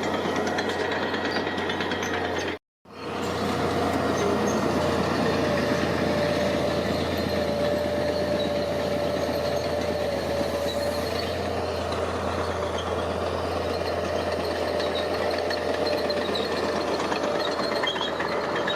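Heavy construction machinery engine running steadily, with a low hum and a steady whine on top. The sound cuts out abruptly for a moment about three seconds in, then comes straight back.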